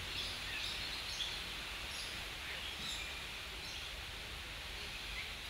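Forest ambience: scattered short bird chirps over a steady background hiss.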